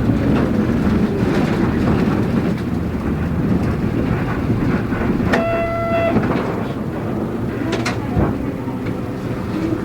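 Diesel route bus running, heard from inside the passenger cabin: a steady engine and road rumble with body rattles. About five seconds in, a short electronic tone sounds once.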